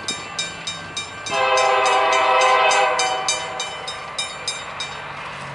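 A diesel locomotive's air horn sounds one long blast, starting about a second in and fading out after about three seconds, over a bell that rings about three times a second and stops near the end.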